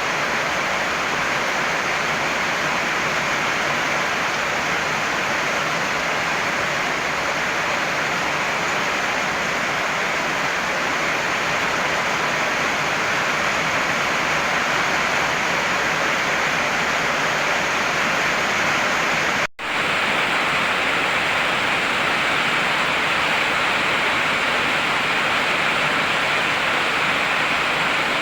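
Heavy rain falling in a steady, even hiss. The sound cuts out for an instant about two-thirds of the way through, then resumes unchanged.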